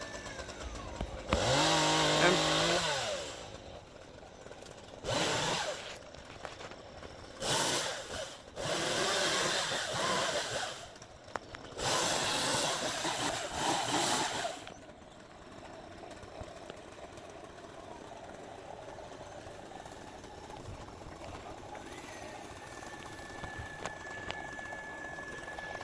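Two-stroke Stihl chainsaw revved in about five short bursts of throttle, the first with its pitch rising then falling. It then drops away to a steady, quieter engine hum, with a thin high whine coming in near the end.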